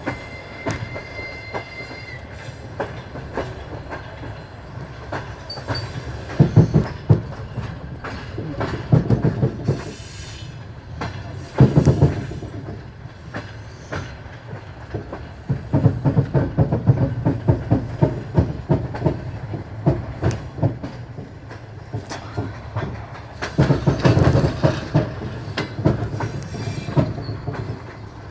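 Train wheels rolling over rail joints on a moving train: a steady low rumble broken every few seconds by runs of rapid clickety-clack as the wheelsets cross the joints. A thin, high steady whine sounds over the first two seconds.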